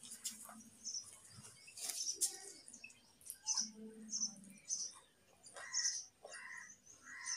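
Small birds chirping in short, repeated high calls, with a few soft clicks in between.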